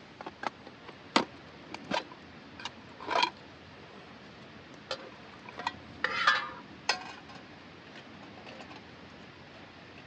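Small hard objects being handled: a series of light clicks and knocks over the first several seconds, with two short scraping rustles about three and six seconds in.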